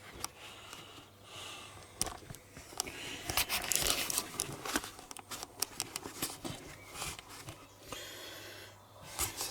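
Handling noises at a workbench: rustling with scattered light clicks and knocks, as valve-head parts or a rag are moved about.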